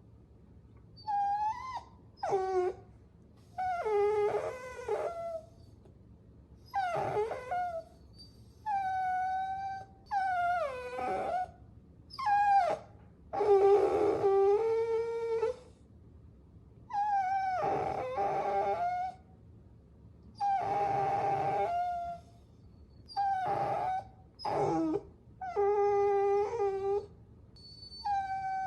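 Puppies whining: a string of high-pitched whines and short cries, each a second or two long with short pauses between, some falling in pitch. At times two puppies whine at once.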